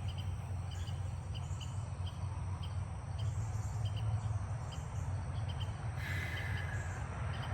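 Cricket chirping, short high chirps repeating a few times a second over a steady low rumble.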